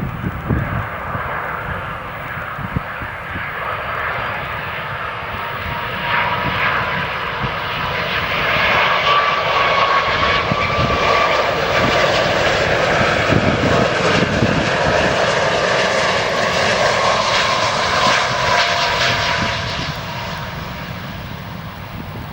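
Jet airliner's engines passing by: rushing jet noise with a wavering whine that builds over the first several seconds, stays loud for about ten seconds, then fades near the end.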